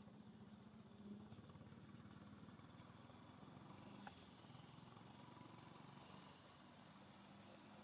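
Near silence: a faint steady low background hum, with one faint click about four seconds in.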